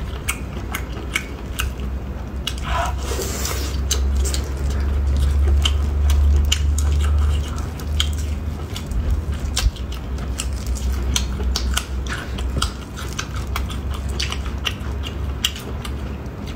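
Close-up eating sounds: a person biting and chewing ring-shaped food, with many short wet mouth clicks and smacks, over a steady low hum.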